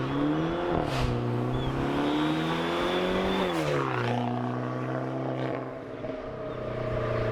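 Straight-piped exhaust of a Dodge Dart's 1.4-litre turbo four-cylinder, its resonator and muffler removed, pulling under acceleration: the note rises, dips about a second in, climbs again, falls away about three and a half seconds in, then holds steady.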